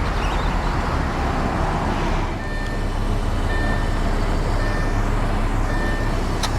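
Lamborghini Gallardo Superleggera's 5.2-litre V10 idling steadily with a low hum. From about two and a half seconds in, a short high beep repeats about once a second, and a sharp click comes near the end.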